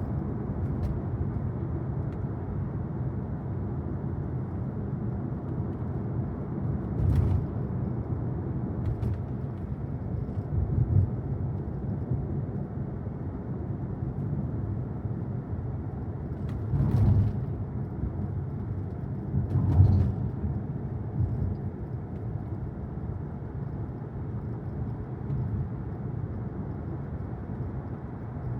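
Steady low road and tyre rumble inside the cabin of a moving Tesla Model Y electric car, with no engine sound. A few brief louder thumps come through: once a quarter of the way in, then twice close together about two-thirds of the way through.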